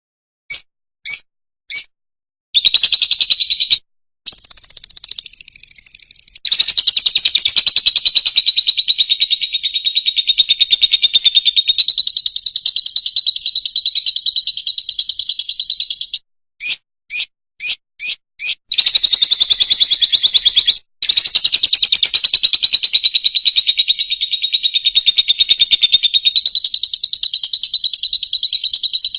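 Fischer's lovebird singing. Three short chirps give way to a long, fast, high-pitched chattering song. About two-thirds of the way in, five short chirps break it before the chatter starts again.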